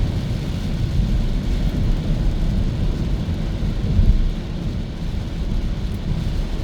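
Road and tyre noise from a Hyundai Kona EV driving along, with no engine sound: a steady low rumble, with a brief louder bump about four seconds in.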